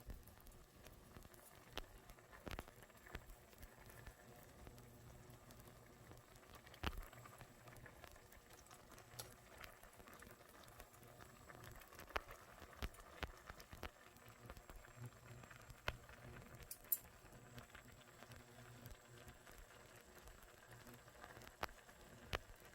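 Instant ramen boiling, faint: soft steady bubbling with irregular sharp pops and crackles.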